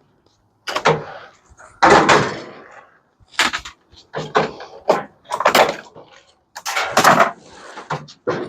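A run of sharp metal clanks and knocks, about eight or nine hits, some ringing briefly, as parts of a microwave are pulled and handled while it is stripped for scrap.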